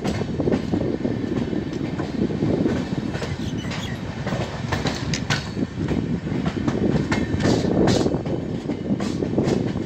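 Electric-hauled express passenger train running at speed, heard from on board. There is a steady rumble of wheels on rail, with sharp clacks over rail joints: a cluster about halfway through and several more near the end.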